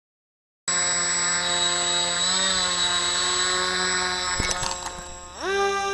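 Brushless electric motor and propeller of an RC plane running at high speed with a steady whine. After a couple of knocks about four and a half seconds in, the pitch and level dip, then rise sharply as the throttle is pushed up.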